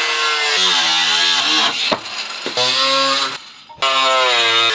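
Power tool cutting through the tractor seat's metal springs, its whine dipping in pitch under load and recovering. It stops briefly about three and a half seconds in, then starts again.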